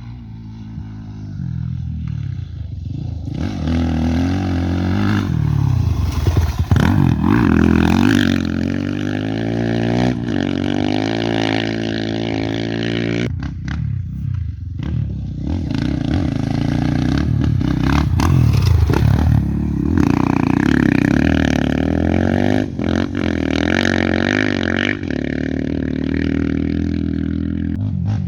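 Off-road race motorcycles running hard, their engines revving and shifting so the pitch keeps climbing and dropping. It builds over the first few seconds, dips briefly about halfway through, then comes back loud.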